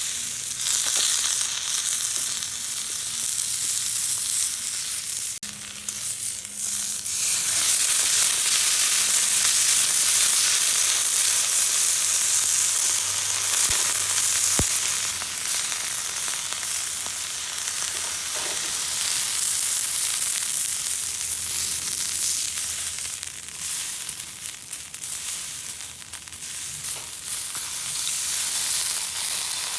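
Food frying in oil in a pan, a steady sizzle that swells louder for a few seconds about a quarter of the way in, with a single sharp click about five seconds in.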